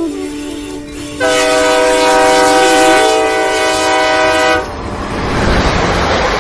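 Battery-powered toy train's electronic horn sound effect: a steady horn tone that comes in about a second in and holds for about three and a half seconds, then gives way to a steady noisy rush as the train runs on its plastic track.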